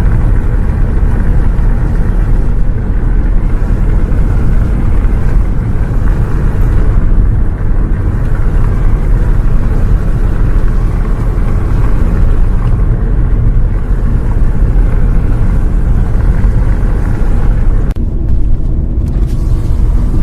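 Loud, steady low rumble of a bus on the move, with engine and road noise heard from inside.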